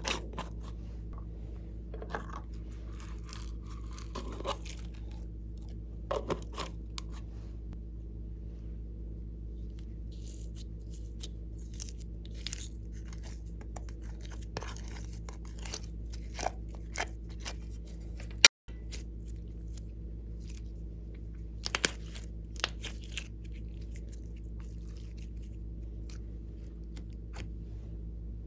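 Slime being squished and stretched by hand: scattered crackles and clicks over a steady low hum. A sharp click and a brief dropout come about two-thirds of the way through.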